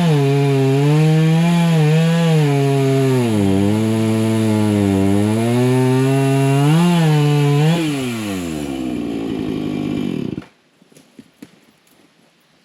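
Chainsaw cutting brush, its engine pitch dipping and rising under load, with a chain that he says he probably should have sharpened. About eight seconds in the pitch falls as the saw drops back to idle, and it shuts off suddenly a couple of seconds later, leaving only a few faint clicks.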